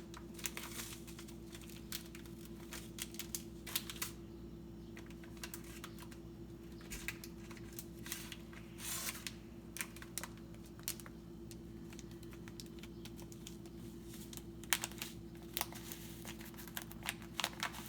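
Spice jars and packets being handled, making small irregular clicks and taps with a few short crinkling rustles, over a steady low hum.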